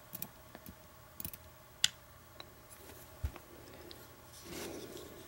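Scattered light clicks and taps of small lock pins and springs being handled as a disassembled padlock's pin stacks are taken out and laid out, with one duller knock about three seconds in and a brief rustle near the end.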